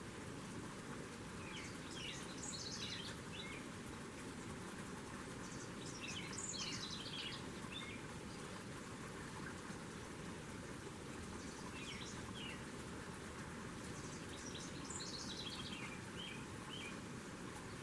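A songbird singing four short phrases of rapid notes that step down in pitch, over a steady outdoor background hiss.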